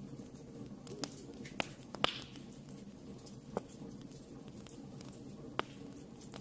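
Wood fire burning in a fireplace: a handful of scattered sharp crackles and pops, the loudest about two seconds in with a short hiss after it, over a steady low rush.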